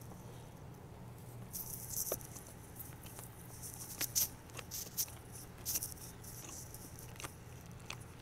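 Close-miked chewing of a bite of almond butter and strawberry jelly sandwich on whole wheat bread: scattered soft clicks, crackles and wet mouth smacks, thickest from about two to six seconds in.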